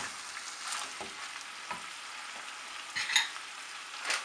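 Mutton pieces frying with garlic paste and green chilies in oil, sizzling steadily while a wooden spatula stirs and scrapes them around the pan. A sharper knock about three seconds in.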